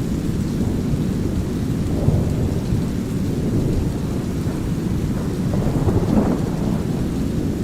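Low, steady brown noise mixed with light rain and rolling thunder, a rumble of thunder swelling about six seconds in.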